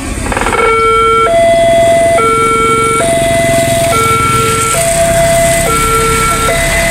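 Railway level crossing's electronic warning alarm starting up about half a second in, alternating steadily between a lower and a higher tone, each held just under a second. This signals an approaching train, with the barriers about to close. A low engine rumble runs underneath.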